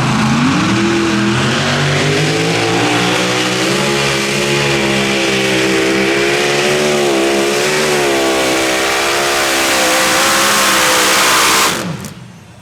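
Competition pulling vehicle's engine running hard at high revs under load. The pitch climbs in the first second, then holds high with slow wavering, and the sound cuts off sharply near the end.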